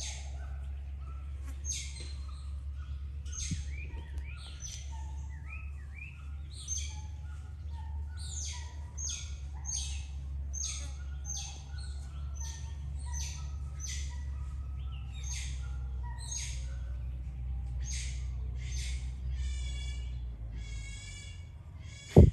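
Series of short, high-pitched chirping calls from a small animal, coming about twice a second, turning into longer rasping calls near the end, over a steady low rumble. A single loud sharp knock right at the end.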